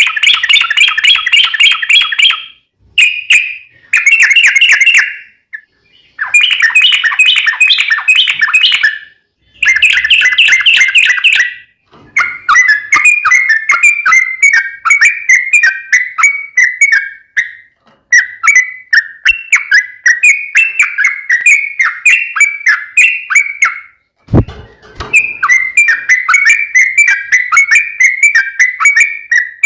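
Yellow-vented bulbul singing a long, rapid bubbling song: first phrases of two to three seconds with short breaks, then from about twelve seconds in an almost unbroken run of quick notes, with one brief break near the end.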